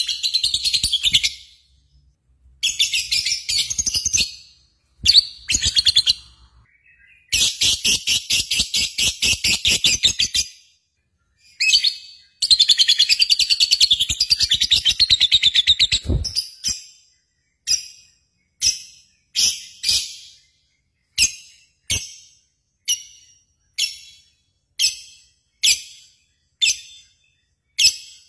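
A bird chirping: several runs of fast, high-pitched chirping trills, then a steady series of single short chirps a little more than one a second.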